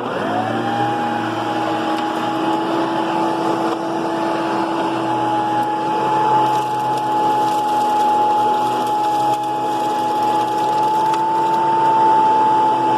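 Hoover PowerMax II vacuum cleaner switched on, its motor spinning up in the first half second to a steady high whine, then running at full speed.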